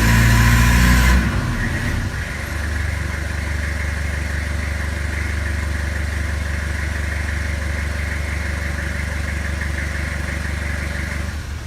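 Toyota Hilux pickup engine revving hard, then dropping to a steady idle about a second in; the sound cuts off near the end.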